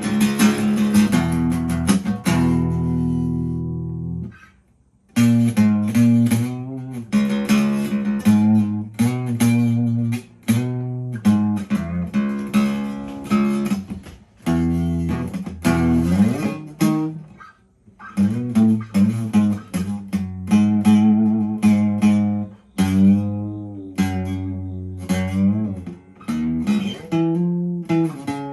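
Rock music with no singing: a lead electric guitar plays a solo of bending, gliding notes over bass and drums, with a brief drop-out about four and a half seconds in.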